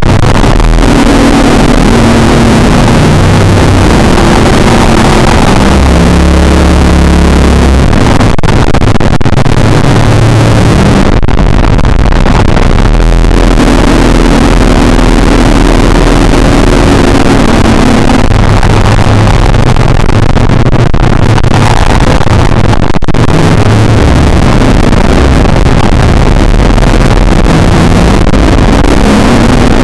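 Loud, distorted, continuous droning noise, with low tones that step up and down in pitch every second or so over a constant hiss.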